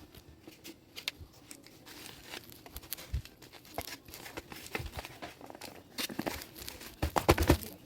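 Crinkling and crackling handling noises made of many sharp clicks, with a quick run of louder knocks near the end.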